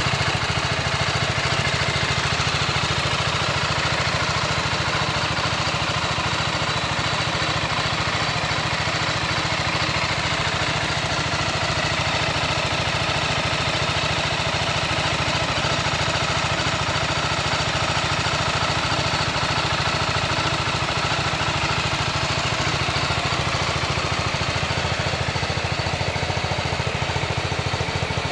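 BMW G310R's 313 cc single-cylinder engine idling steadily, with no revving.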